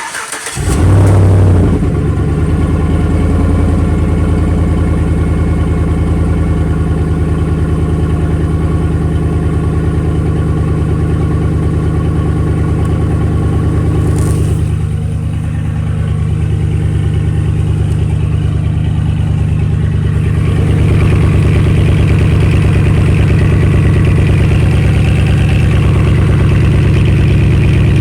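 Chevrolet 5.3 L V8 starting, flaring briefly, then settling into a steady, loud idle, with the muffler and resonator cut out of the exhaust and the factory catalytic converters left in place.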